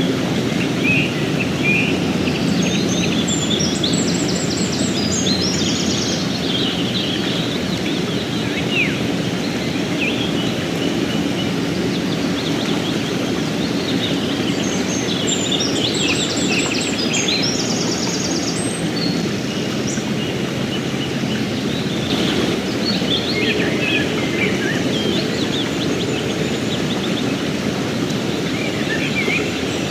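Steady rushing of a flowing river, with songbirds chirping over it in several short clusters of quick notes.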